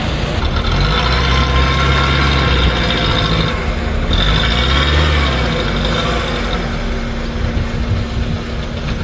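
Car engine running, with its pitch rising and falling once about halfway through.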